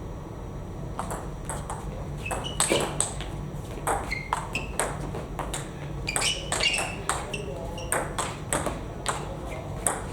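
Table tennis ball clicking off bats and table in rallies: a quick, irregular run of sharp clicks, some with a short, high ringing ping.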